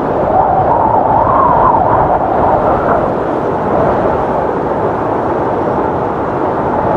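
Strong wind blowing, with a howl that rises and falls in pitch.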